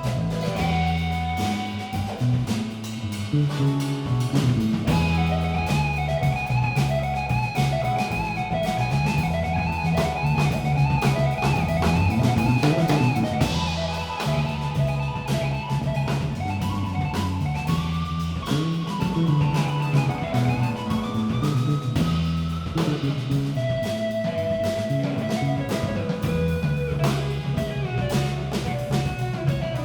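Live band playing an instrumental passage: a guitar carries a sustained melody with wavering, bent notes over a bass line and a drum kit keeping a steady beat.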